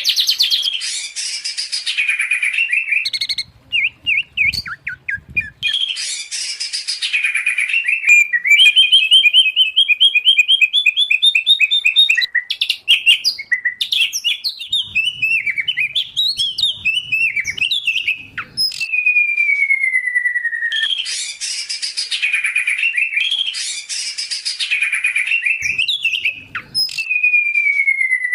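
Loud songbird song mixing white-rumped shama, oriental magpie-robin and greater green leafbird: varied phrases of rapid trills and chattering notes, with a long falling whistle twice, about two-thirds through and near the end. Recordings like this are played to tutor captive songbirds.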